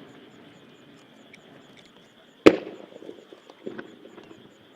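An aerial firework shell bursting with a single loud boom about halfway through, its echo rolling away after it, followed by a little fainter crackle.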